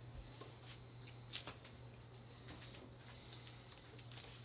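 Faint handling noise: a few soft clicks and light rustles, the clearest about a second and a half in, over a steady low electrical hum.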